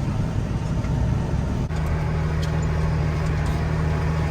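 Steady drone of a heavy farm vehicle's diesel engine heard from inside its cab. About a second and a half in it breaks off and gives way to a steadier, deeper engine hum.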